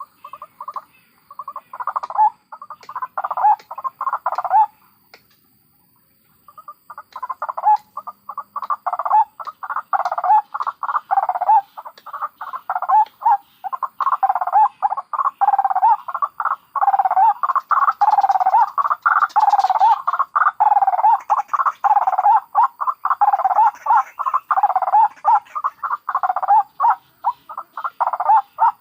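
White-breasted waterhens (ruak-ruak) giving fast, repeated croaking calls. The calling breaks off about 5 seconds in and starts again a moment later, then goes on without pause.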